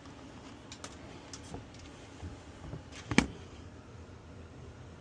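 Steady low hum of a running heat pump air handler, with a few faint clicks and one sharp click about three seconds in.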